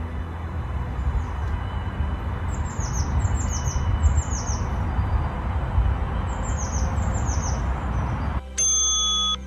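A bird calls in short runs of quick, falling, high chirps over a steady low rumble. Near the end a steady held tone sounds for about a second and cuts off suddenly.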